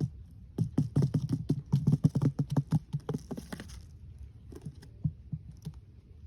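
A quick run of sharp taps and clicks lasting about three seconds, then a few scattered taps.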